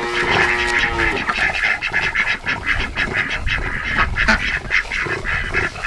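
A flock of domestic ducks quacking: many short calls in rapid succession, with one longer drawn-out call in the first second.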